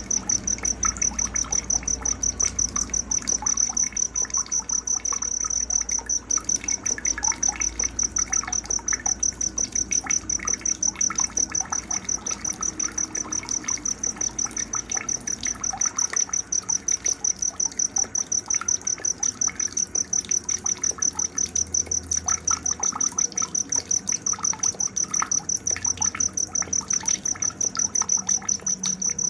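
An insect trills steadily in a high-pitched, rapidly pulsing night chorus, with scattered bird chirps underneath.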